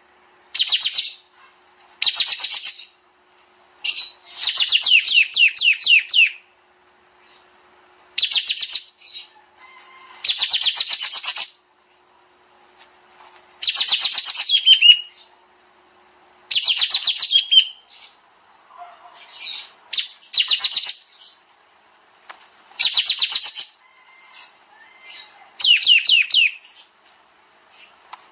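Kapas tembak bird singing its dense, rapid-fire song: bursts of fast repeated chattering notes, each a second or two long, coming again every couple of seconds.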